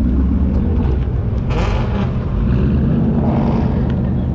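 Car engine running steadily with a low rumble, with a brief louder, hissier swell about a second and a half in.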